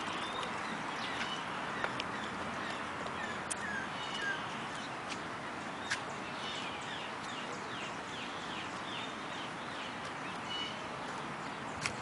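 Outdoor park ambience: a steady background hiss, with a bird giving a run of short, quick, downward-slurred chirps from about halfway through. A few sharp clicks stand out against it.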